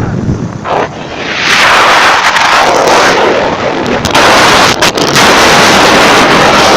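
Strong wind buffeting the microphone in gusts, dipping briefly, then building up about a second and a half in and staying loud.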